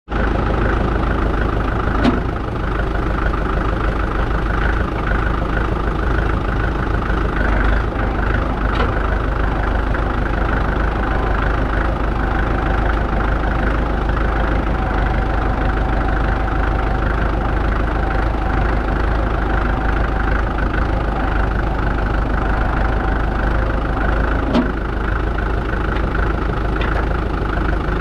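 1947 McCormick ODS-6 orchard tractor's engine running steadily, with two brief sharp clicks, one about two seconds in and another near the end.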